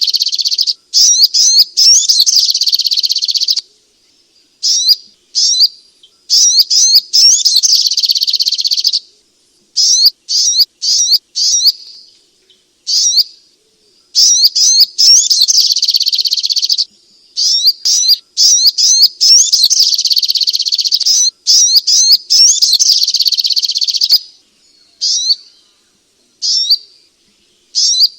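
Sogok ontong (little spiderhunter) song: loud, rapid, high chattering phrases of one to three seconds, repeated with brief pauses between them.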